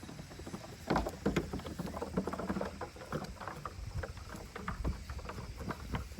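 Kid goats' hooves clattering and knocking in quick irregular strikes as they run and jump about, starting about a second in.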